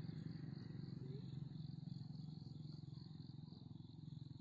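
Insects chirping in a steady pulsing rhythm, about three pulses a second, over a faint low steady hum.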